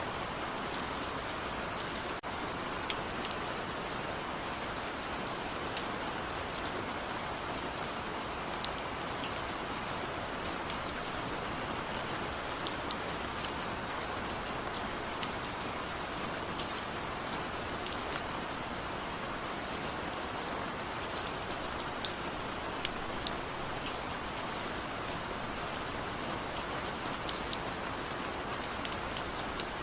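Steady rain, a dense even hiss, with scattered individual drops ticking sharply close by.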